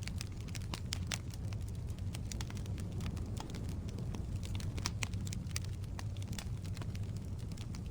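Firewood burning in a fireplace: frequent sharp crackles and pops, several a second, over a steady low rumble of the flames.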